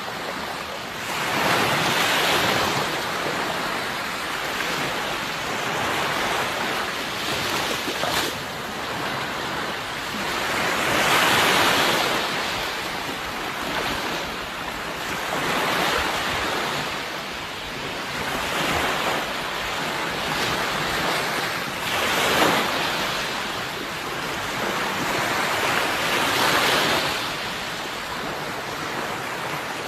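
Sea waves breaking and washing onto a shore, the surf swelling and falling back in repeated surges every few seconds.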